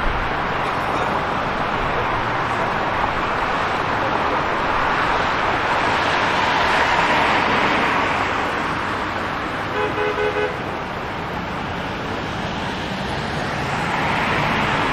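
City street traffic: vehicles passing with a steady tyre-and-engine noise that swells and fades, and a car horn tooted in a quick run of short beeps about ten seconds in.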